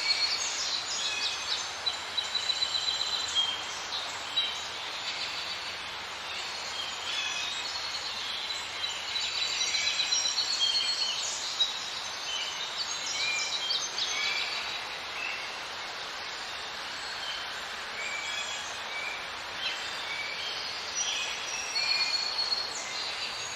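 Many birds chirping and whistling in short, high calls over a steady background hiss of outdoor ambience.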